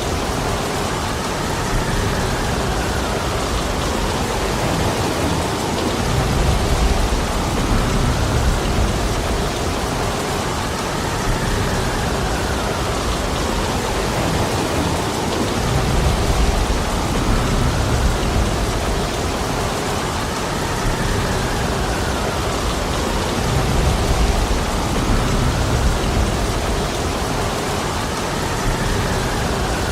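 Heavy rain falling steadily, with a low rumble swelling every four to five seconds.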